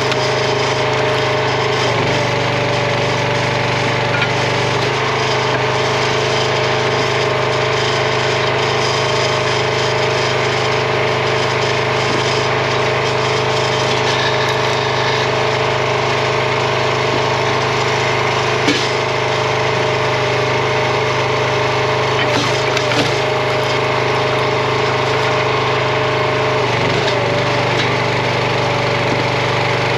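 Small gas engine of a RuggedMade log splitter running steadily, with a few short cracks as the splitter works through red oak.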